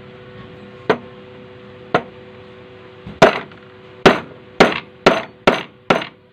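Hammer blows, about eight sharp strikes, spaced a second apart at first and coming faster in the second half. A steady low hum runs underneath.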